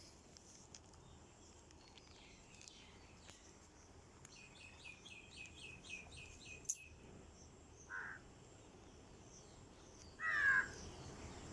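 Birds calling outdoors: a quick run of about eight high chirps in the middle, a short call a little later, then a louder falling call near the end. A single sharp click falls just after the chirps.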